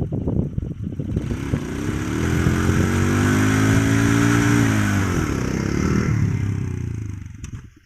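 Small motorcycle engine revved up for a burnout: it climbs about a second and a half in, holds high for a couple of seconds with a broad hiss alongside, then drops back and dies away near the end. Wind buffets the microphone at the start.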